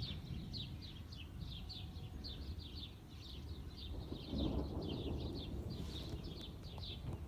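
Birds chirping steadily, short high down-sweeping chirps about three or four a second, over a steady low rumble of wind. The low rumble swells up about four seconds in, then eases.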